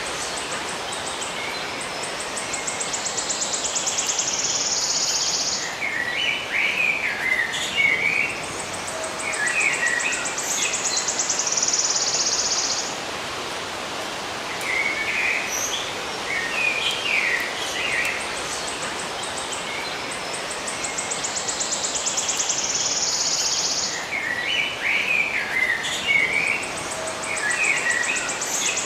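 Songbirds chirping in short, scattered phrases, with a high, rapid trill coming and going in stretches of a few seconds, over a steady background hiss.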